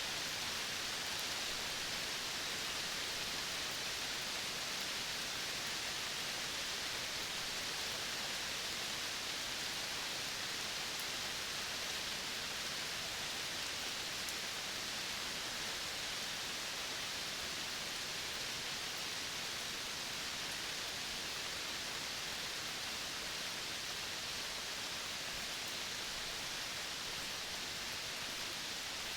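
Steady, even hiss of outdoor nature ambience, brightest in the upper-middle range, with no distinct calls or events standing out.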